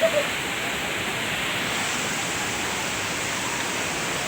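Steady rush of fast-flowing water at the Bantimurung waterfall, an even roar of strong current.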